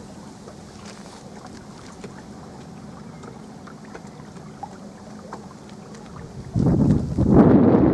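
Small electric rental boat running quietly on a lake, with a low steady hum. About six and a half seconds in, loud wind buffeting on the microphone suddenly takes over.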